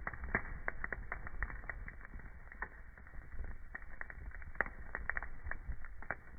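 Wood fire in a fireplace crackling: irregular sharp pops and snaps, several a second, over a low rumble of burning.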